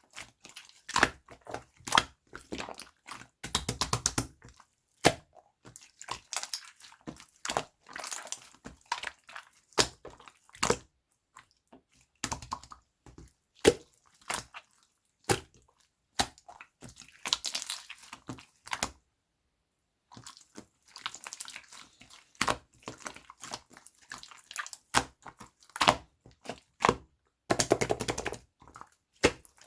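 Hands squishing and poking slime that has paint mixed into it, making a run of wet clicks, pops and crackles with short pauses. There is a silent break of about a second two-thirds of the way through.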